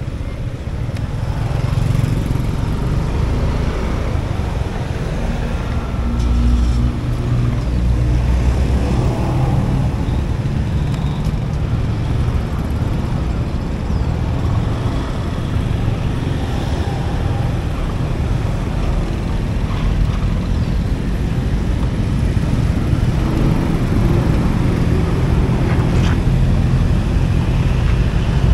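Motorbike scooter ride: steady heavy rumble of wind on the microphone mixed with the scooter's engine and road noise, with other traffic passing.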